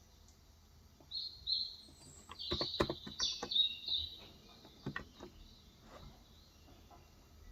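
A bird chirping: a quick run of high chirps starting about a second in and lasting some three seconds. A few keystrokes on a Cox Endeavor 35 g capacitive tenkeyless keyboard click during the chirps and again about five seconds in.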